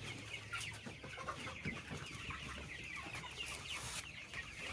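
A flock of chickens in a poultry house making many short, high cheeps and soft clucks that overlap, with a low steady hum underneath.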